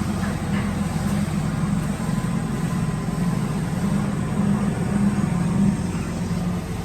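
Woodworking drilling machine running with a loud, steady motor hum.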